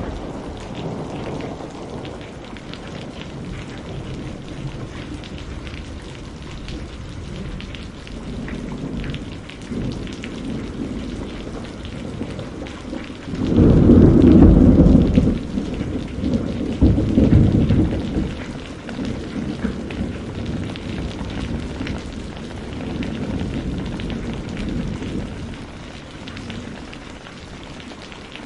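Steady rain with rolling thunder: a loud clap about halfway through rumbles on for several seconds, with softer distant rumbles before and after it.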